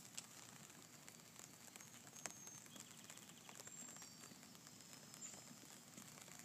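Faint light rain pattering: a soft steady hiss with scattered sharp ticks of drops.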